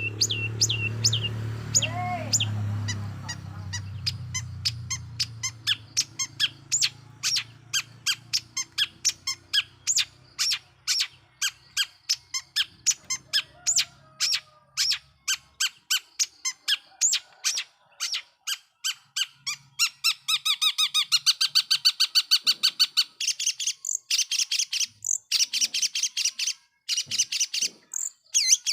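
Long-tailed shrike (cendet) singing in a long run of sharp, repeated high chirps, about three or four a second, that speeds up into a rapid chatter about twenty seconds in. A low hum sits underneath for the first half and then fades out.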